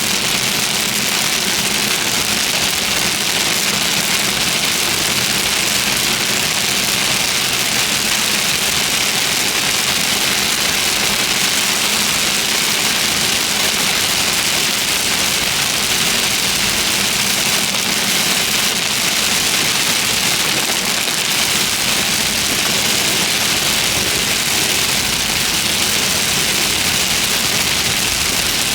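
Steady hiss of heavy rain, with a vehicle engine idling underneath as a faint low hum.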